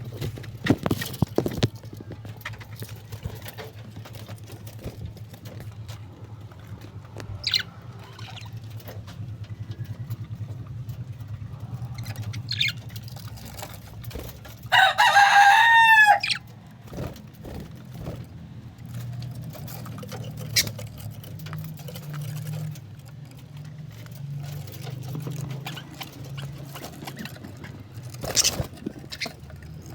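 Birds calling, with scattered short clicks over a low steady hum. About halfway through comes one loud call lasting about a second and a half.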